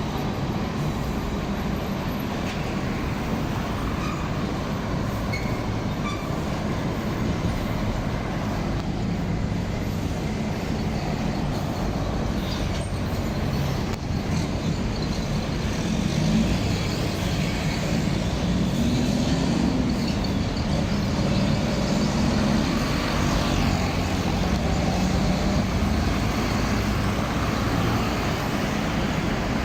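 Heavy truck traffic: truck engines rumbling steadily, growing louder about halfway through.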